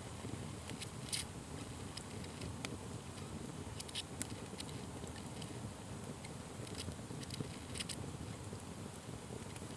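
Wood fire burning with a steady low rumble of flames and irregular sharp crackles and pops, a few louder pops scattered through.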